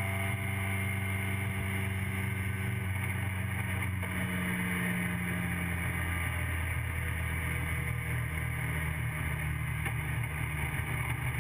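TVR Vixen race car's Ford Kent Crossflow four-cylinder engine running at steady revs, heard from inside the cabin, with a slight drop in pitch about four seconds in.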